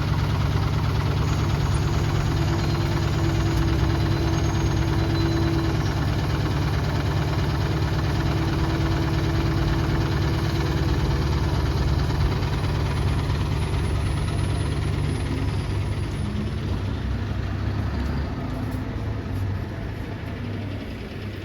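City bus engine idling steadily with a low, even rumble; in the last few seconds its note shifts and it grows a little quieter.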